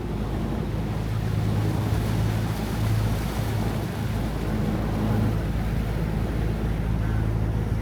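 A riverboat's engine running steadily with a constant low drone, along with wind and water noise.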